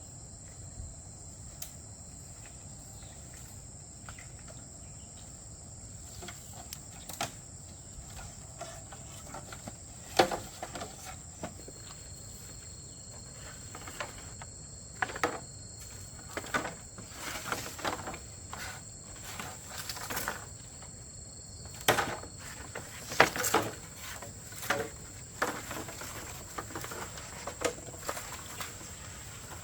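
Insects singing a steady high-pitched drone, with a second fainter tone joining for part of the time. Irregular knocks and clatters come and go over it, the loudest about ten seconds in and again past twenty seconds.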